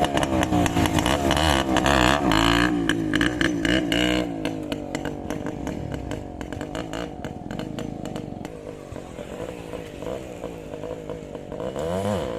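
Hero Xpulse 200 single-cylinder motorcycle engine revving, its pitch rising and falling as the throttle is worked for the first few seconds, then running quieter and lower, with another swell in revs near the end.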